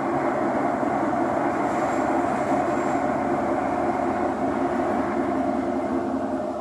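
Steady rumble and rail noise inside a Thomson-East Coast Line metro train running between stations, easing slightly near the end.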